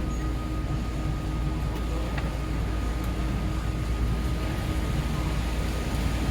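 Steady low rumble with a hiss over it and a faint, thin high tone, the even noise of a running vehicle or ventilation.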